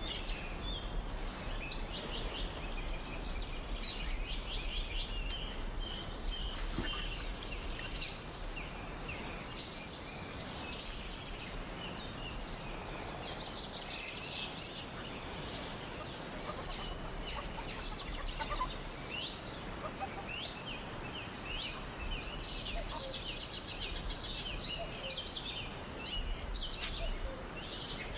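Many birds chirping and calling, with short trills and quick falling notes, over a steady background of outdoor noise.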